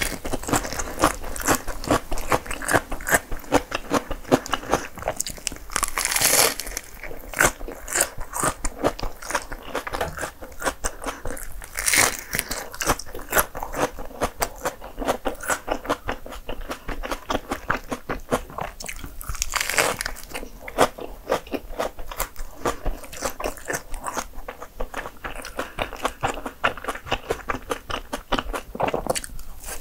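Biting into and chewing a bagel sandwich filled with shredded lettuce, ham and pumpkin spread: steady crunching and chewing clicks, with louder bursts about 6, 12 and 20 seconds in.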